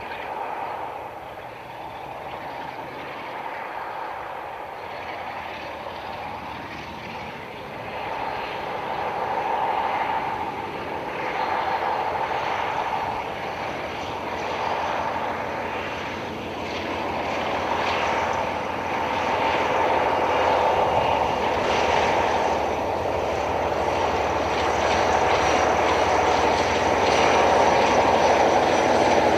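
A Class 47 diesel locomotive's Sulzer twin-bank V12 engine working as the train approaches, its steady drone growing louder throughout.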